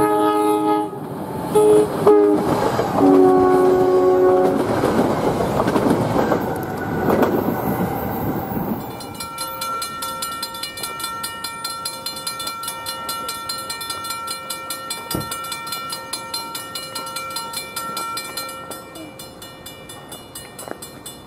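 NJ Transit electric commuter train sounding its horn in several blasts, the last one lower in pitch, then rumbling past on the rails. About nine seconds in, a grade-crossing warning bell rings rapidly and steadily, fading near the end.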